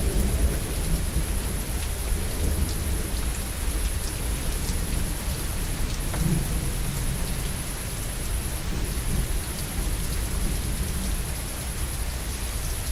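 Steady heavy rain with a low rolling rumble of thunder, strongest near the start and swelling again briefly about halfway through.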